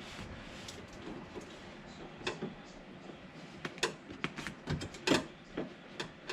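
Irregular sharp clicks and knocks of hand work on a pickup door's handle hardware, the handle clip being worked back into place, starting about two seconds in with the loudest knock about five seconds in.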